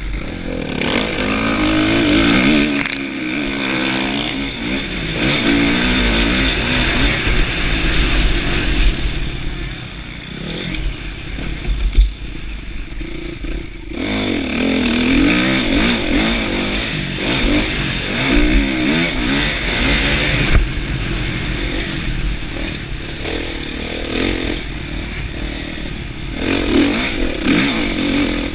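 2016 Kawasaki KX450F motocross bike's single-cylinder four-stroke engine revving up and falling off again and again as it is ridden around a track, heard from an onboard action camera. The engine drops back for a few seconds around the middle, with one sharp knock.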